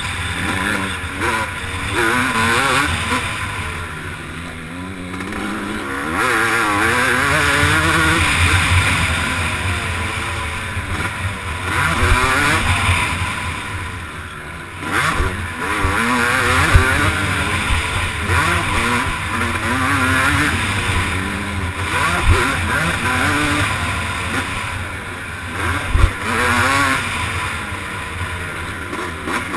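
Motocross bike engine revving hard and dropping off again and again as it is ridden round a race track, heard close up from the onboard camera, with several sharp knocks along the way.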